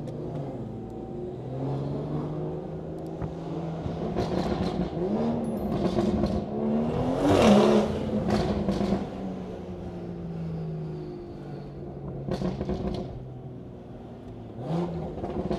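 BMW 340i's B58 turbocharged straight-six running through its aftermarket exhaust. Its steady drone climbs in a rev that peaks about halfway through, then settles back.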